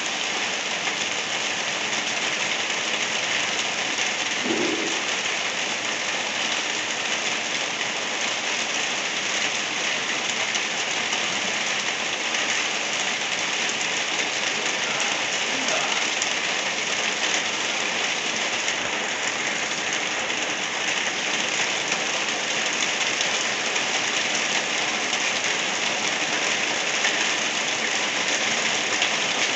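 Light rain falling steadily, an even, unbroken hiss of drops.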